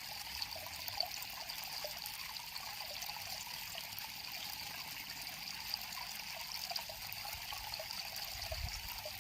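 A river flowing steadily, water trickling and babbling over stones with many small irregular plinks and splashes. A low rumble comes in near the end.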